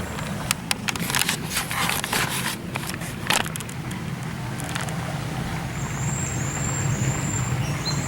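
Crackling and crunching noises in the first few seconds, over a steady low rumble. From about six seconds in, a bird gives a run of short, high, thin chirps.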